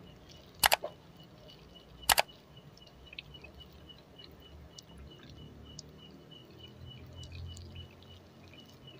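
Close-miked eating of soft rolled crepes (dadar gulung): quiet mouth and chewing sounds with scattered small ticks. Two sharp double clicks stand out, about a second in and again about two seconds in.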